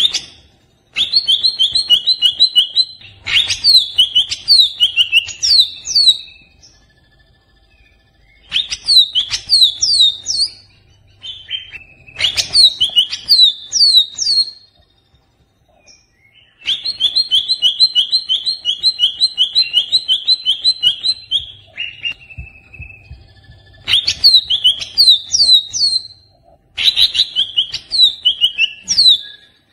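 Greater green leafbird (cucak ijo) giving its agitated song in bouts of a few seconds: fast runs of repeated notes and chains of sharply falling whistles, with short pauses between bouts.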